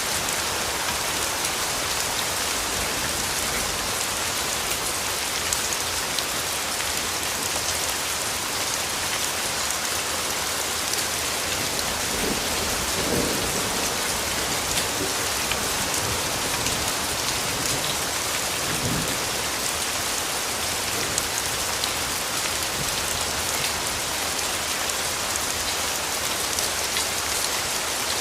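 Steady rainfall, a dense even hiss with many small drop ticks. A low rumble of distant thunder swells briefly about halfway through and again a few seconds later.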